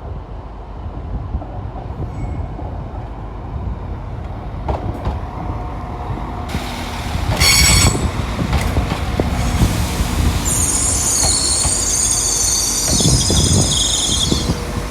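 A train rumbling along the rails, growing louder, with a brief high squeal about halfway through and a longer high-pitched squeal of steel wheels from about ten seconds in, lasting some four seconds.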